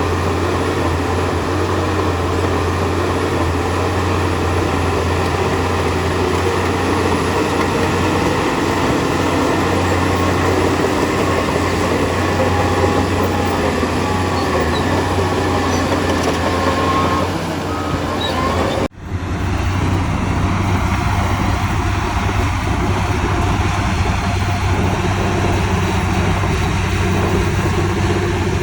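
Heavy diesel earthmoving machinery running steadily, with a strong low engine drone. The sound cuts off abruptly about two-thirds of the way through and picks up again at once.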